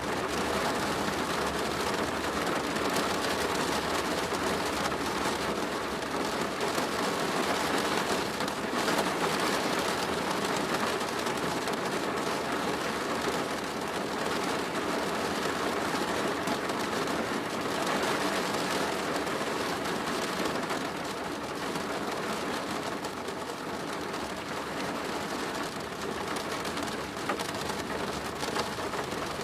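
Steady rain falling on a plastic roof: a dense, even patter of many drops that holds at the same level throughout.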